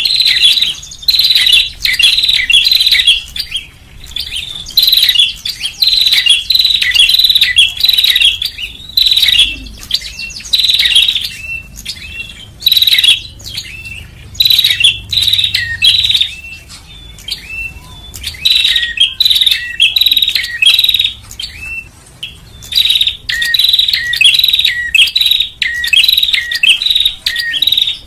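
Prinia (prenjak) calling: loud bursts of rapid, high chirping notes, each burst about a second long, repeated with short pauses. In the second half, lower notes alternate with the high chirps.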